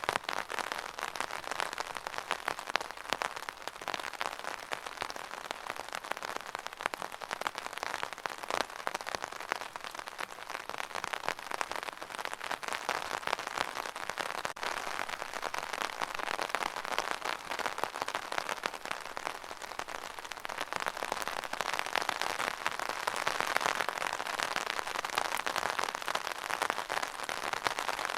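Steady rain falling on a hard surface, a dense patter of many small drop impacts, swelling slightly louder near the end.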